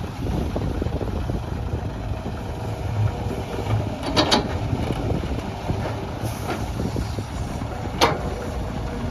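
Heavy earthmoving machinery's engine running steadily, with two sharp knocks, one about four seconds in and one about eight seconds in.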